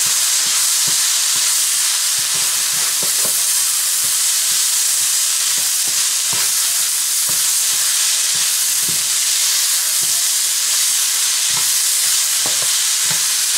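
Minced chicken sizzling steadily in a non-stick pan as a wooden spatula stirs it, with frequent irregular scrapes and taps of the spatula against the pan.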